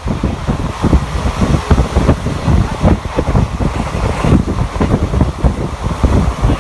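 Heavy wind buffeting on the microphone over the steady rumble of a moving train at speed.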